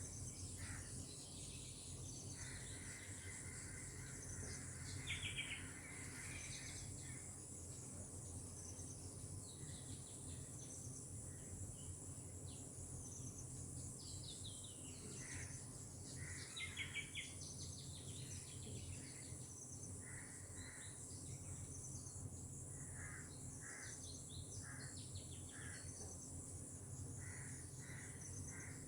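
Birds calling over a steady high-pitched drone of insects, cicadas or crickets: short notes repeated in small groups, with a louder rapid trill twice, about five seconds in and again around seventeen seconds.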